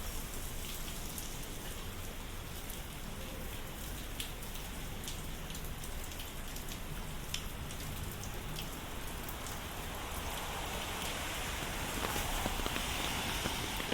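Steady rain falling, a continuous hiss with scattered individual drops ticking. A louder hiss swells over the last few seconds.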